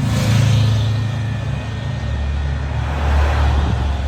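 Tesla's radiator/condenser cooling fan running with the air conditioning on: a loud, steady drone with a rushing-air hiss, its low hum dropping in pitch about halfway through. The owner takes this noise for a failing condenser fan rather than the AC compressor.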